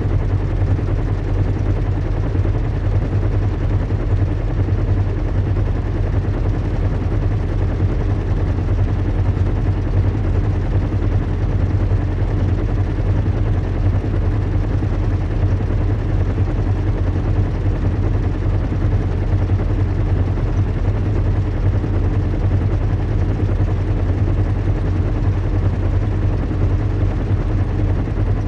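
Recreated in-flight sound of a zeppelin airship: a steady, deep engine drone and rumble with a faint hiss above it.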